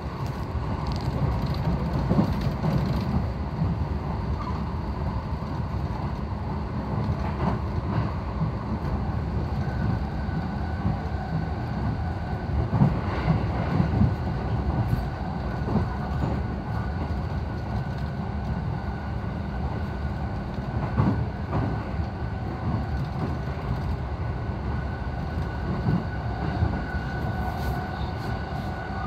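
Electric passenger train heard from inside the carriage while running: a steady rumble of wheels on the rails with a few sharper knocks, and a faint steady high tone.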